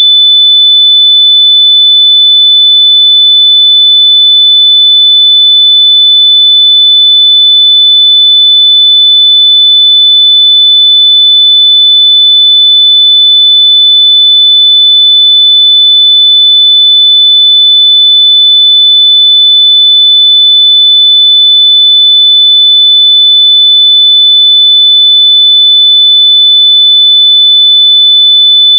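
A loud, continuous high-pitched sine-wave beep tone at about 3.5 kHz, one steady pitch held without a break: a test tone meant to be played through lost wireless earbuds so they can be found by ear.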